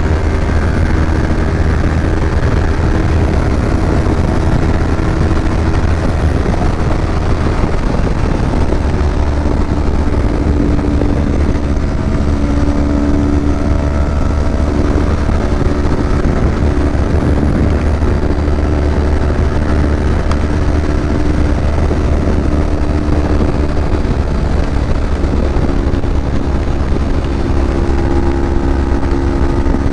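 Kawasaki Ninja 250 parallel-twin engine running steadily while the bike is ridden, its note stepping to a new pitch a few times along the way.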